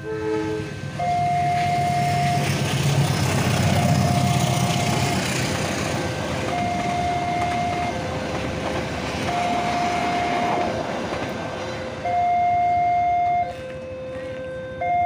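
Passenger train passing over a level crossing: a rushing rumble of the carriages that builds over the first few seconds and fades after about ten. Throughout, the crossing's electronic warning alarm alternates between a high tone and a low tone, each held about a second and a half, and it is heard alone once the train has gone.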